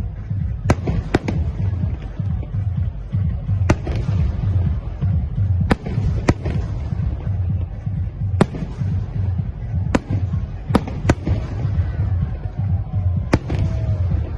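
Fireworks going off: about ten sharp cracks at irregular intervals, some in quick pairs, over a steady low rumble.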